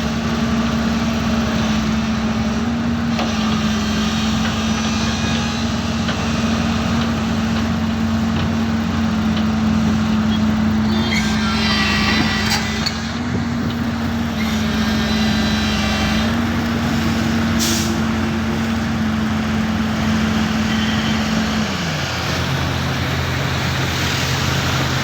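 Diesel engine of a JCB loader running steadily at working revs, rising briefly a few times as it takes load, then dropping to a lower idle near the end. A short rattling hiss comes about halfway through.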